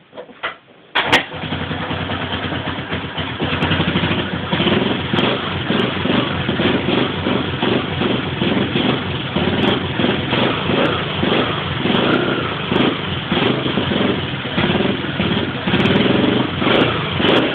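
Yuki GY4 motorcycle engine starting about a second in, on its first start after maintenance, then running with the revs rising and falling over and over.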